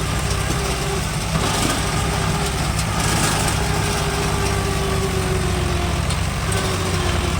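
Tractor diesel engine running steadily, with a low, even chugging.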